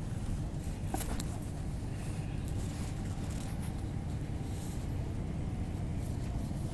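CRRC Qingdao Sifang EMU (MTR Q-Train) heard from inside the car while running: a steady low rumble of wheels on rail, with a few sharp clicks about a second in.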